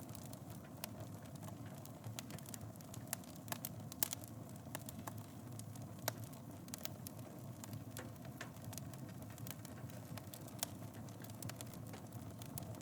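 Wood fire in a fireplace crackling: a steady low rush of burning with frequent sharp pops and snaps, the loudest pop about four seconds in.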